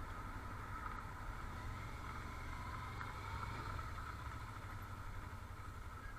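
Steady motor vehicle noise: a low rumble under an even hiss that holds level throughout, with no rise or fall in pitch.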